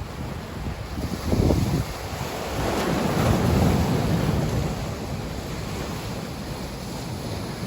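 Sea waves washing in and out, with wind buffeting the microphone in low rumbling gusts. One wave swells up about a third of the way in and then eases off.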